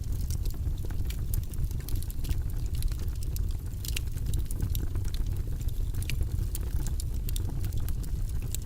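Fire burning in a fireplace: a steady low rumble of flames with many irregular sharp crackles and pops.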